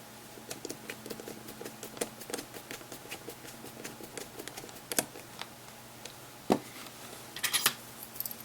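Small screws being driven into a handheld media player's plastic housing with a precision screwdriver: rapid light clicking and ticking of the tool and parts, with a few louder knocks and a short clatter near the end.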